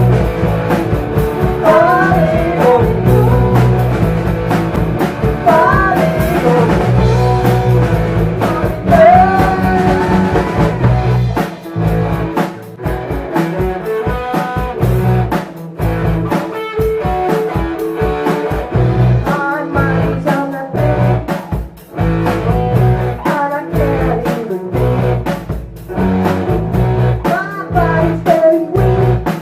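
Live blues-rock band playing loud: drums, bass and electric guitar, with a lead line that bends and slides in pitch. About a third of the way in, the playing turns choppy and stop-start, with hard drum hits and short gaps.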